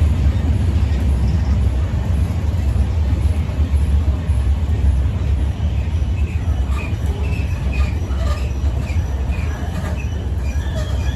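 Freight train rolling past: a steady low rumble of railcars on the track. From about halfway through come short high-pitched squeaks and light clicks.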